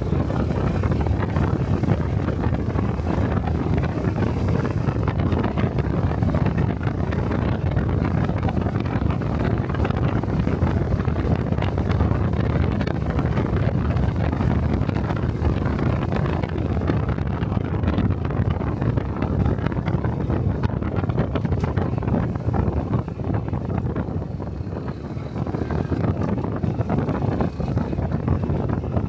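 Honda Cub 125cc motorcycle engine running steadily while riding, mixed with heavy wind buffeting on the microphone. The sound eases for a few seconds near the end, then picks up again.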